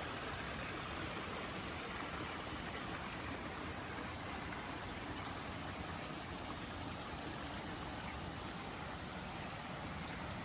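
Flowing water rushing steadily, like a stream.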